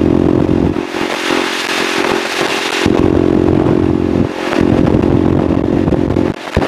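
Husqvarna SMR630 supermoto's single-cylinder four-stroke engine running at road speed, heard from on board with wind rush. The engine note shifts a few times as the throttle is eased and opened again.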